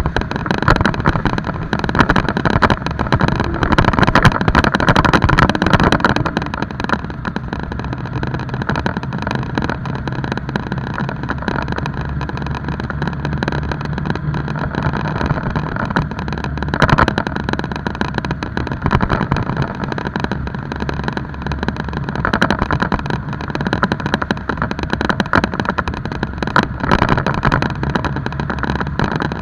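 Motorcycle engine running while riding. It is louder and rougher for the first several seconds, then settles to a steady, lower running note.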